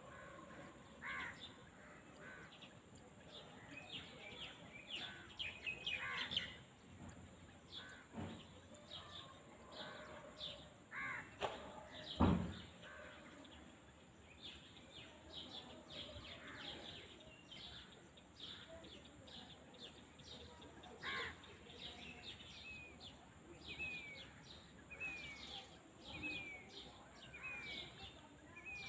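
Rural outdoor ambience of birds calling and chirping, among them crow-like caws, with a run of short falling calls repeated about once a second near the end. About twelve seconds in comes one brief, louder low sound.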